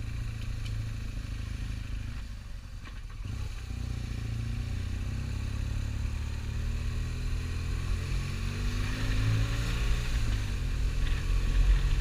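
Motorcycle engine running with rumbling ride noise while under way. It eases off briefly about two to three seconds in, then builds up again as the bike accelerates.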